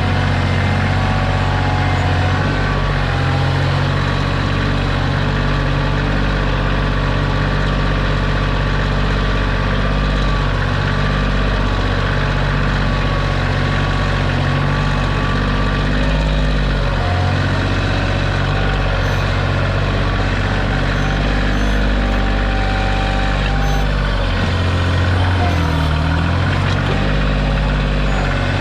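Kioti compact tractor's diesel engine running steadily while the backhoe digs, its pitch dipping and recovering several times, with a thin wavering whine above the engine note.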